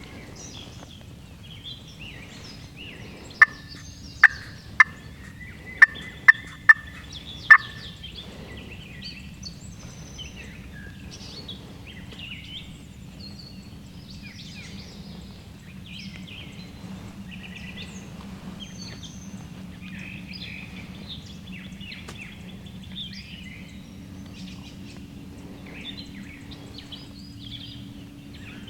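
A quick series of seven short, loud turkey calls starting a few seconds in, over songbirds chirping throughout.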